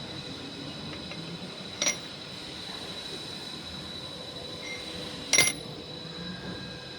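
A steady mechanical running noise with faint high steady whines, broken twice by a sharp click, the second one louder, about three and a half seconds apart.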